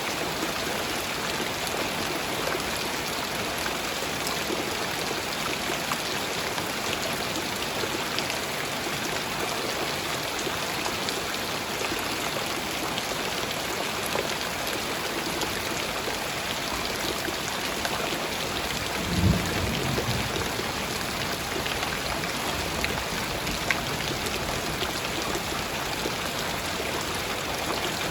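Light rain falling steadily, an even hiss of drizzle. About two-thirds of the way through there is one brief low thump.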